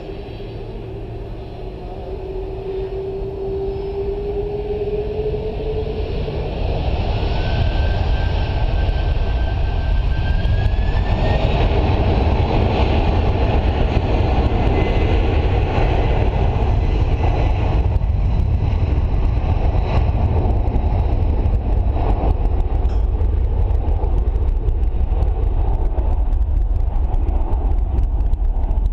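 Boeing 747-400 jet engines spooling up for takeoff: a rising whine over the first ten seconds or so, building into a loud, steady roar at takeoff thrust.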